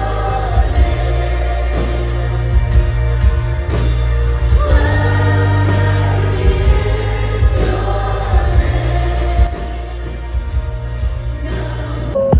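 Christian worship music: a choir of voices singing over a band with a steady heavy bass. The music changes abruptly near the end.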